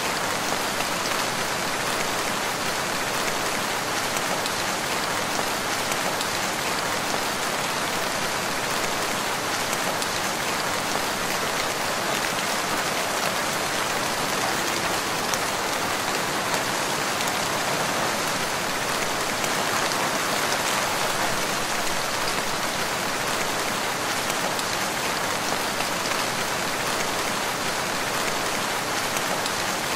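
Steady, even rain falling in a forest, a dense patter of raindrops with no thunder or other events.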